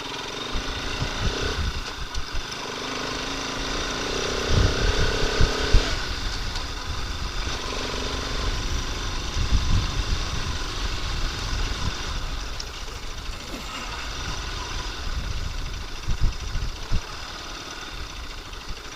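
Motorcycle engine running as the bike is ridden, with irregular low wind buffeting on the microphone.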